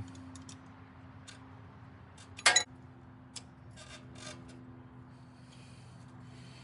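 Metal hand tools clicking and scraping as an 11 mm wrench works a fitting on the mower, with one loud metallic clank about two and a half seconds in, over a faint steady hum.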